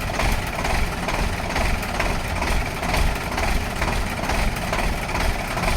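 Heavy truck engine idling steadily with a regular throb.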